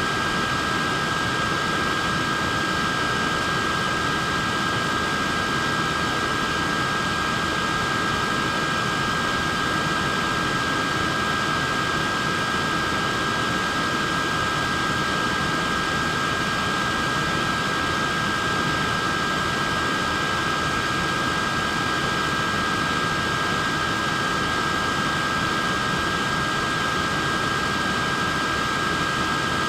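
Wearable neck fan running steadily: an even whoosh of moving air with a steady high-pitched motor whine on top.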